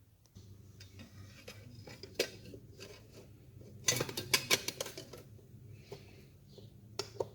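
Sharp metallic clicks and clatter from the mechanism of a Royal No. 5 typewriter: a single click, then a quick run of about half a dozen clicks about four seconds in, and two more near the end.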